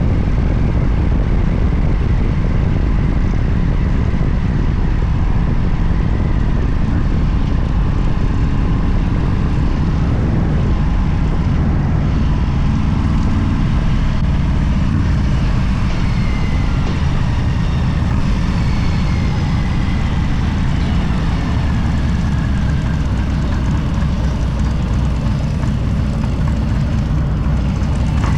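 Steady vehicle running noise: a continuous low rumble with hiss above it, unbroken throughout.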